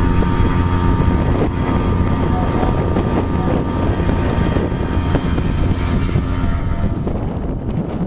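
A small sailboat's outboard motor running steadily, with wind buffeting the microphone.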